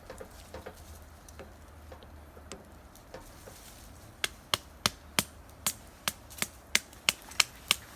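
Cooking utensil tapping against cookware: faint scattered clicks at first, then from about halfway a regular run of sharp, slightly ringing metallic taps, about three a second.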